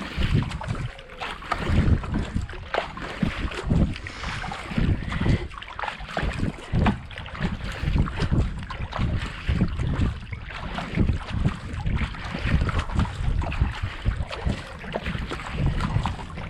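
Kayak paddle strokes at a steady racing pace of about 70-80 strokes a minute: the blades splash in and out of the canal water in an even rhythm, with wind buffeting the microphone.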